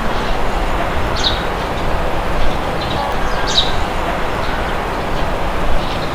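Wind blowing steadily, with a bird giving short high chirps, two of them standing out about a second in and in the middle.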